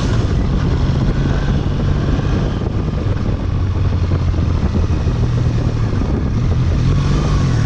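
Triumph Bonneville's parallel-twin engine running under way at fairly steady revs, its note shifting only a little, over a steady rushing noise.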